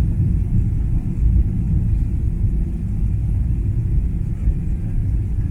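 Airliner cabin noise: a loud, steady low rumble of engines and airflow during the landing approach.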